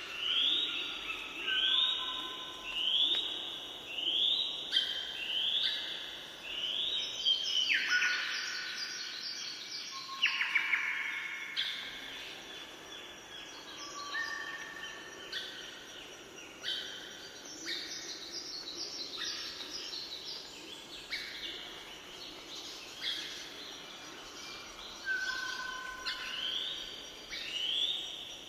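Birds singing: a short sweeping phrase repeated about once a second, with other calls overlapping and busiest about a third of the way in.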